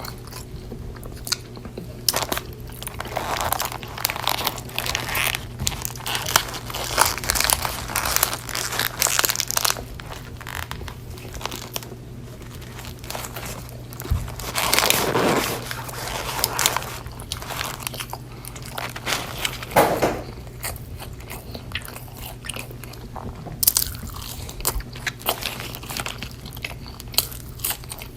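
Close-miked mouth sounds of someone eating a burger and fries: irregular crunchy bites and wet chewing, with a longer, louder mouthful about halfway through. A steady low hum runs underneath.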